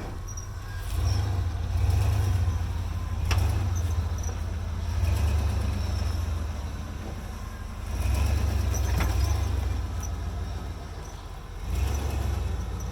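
Jeep engine surging and easing off in repeated throttle bursts while rock crawling, with sharp knocks about three seconds in and again about nine seconds in.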